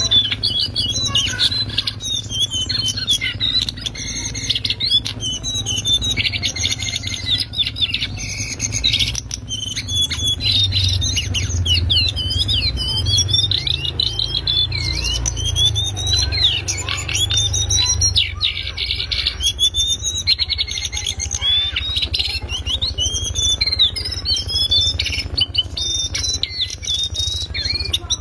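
Lesser shortwing (cingcoang coklat) singing without pause: a loud, high twittering of rapid trills and quick rising and falling notes. A low steady hum runs underneath.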